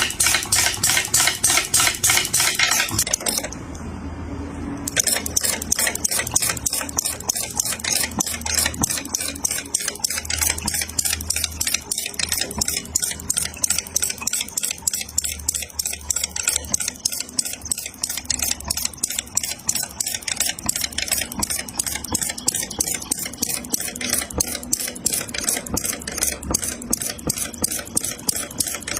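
Scale-model horizontal water-cooled four-stroke gasoline engine, built to look like an antique hot-bulb tractor engine, running with a rapid, even metallic ticking clatter over a low hum. About three seconds in the ticking dips briefly while the hum grows, then the ticking picks up again.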